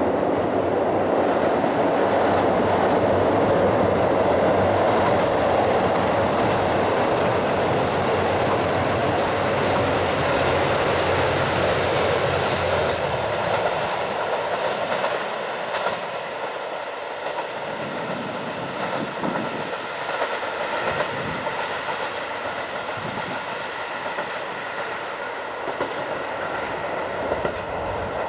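KiHa 183 series diesel train passing close by: loud, steady running noise with wheels clacking over rail joints for the first dozen seconds or so, then fading to a quieter rumble with scattered clicks.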